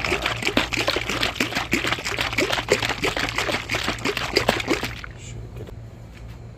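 Liquid head gasket sealer glugging and trickling out of its bottle into a funnel in the cooling system, stopping about five seconds in, over a steady low hum.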